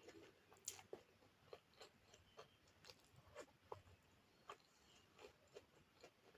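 A person chewing food close to the microphone: faint, irregular wet mouth clicks and smacks, about two or three a second.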